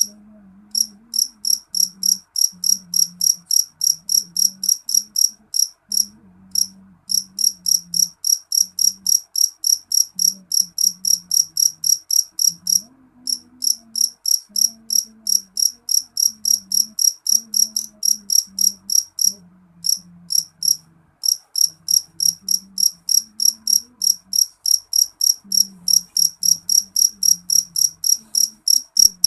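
Black field cricket (jangkrik jeliteng) chirping loudly: a shrill, fast train of short chirps, about four a second, in long runs broken by brief pauses.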